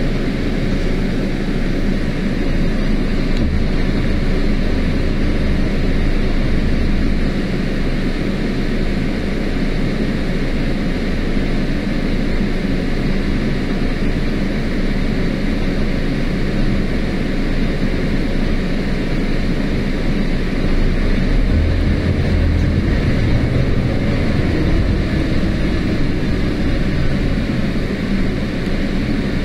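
Scania CN280UB CNG city bus riding, heard from inside the cabin: steady engine and road noise, with the engine's low rumble swelling twice, a few seconds in and again around twenty seconds in, as it pulls under load.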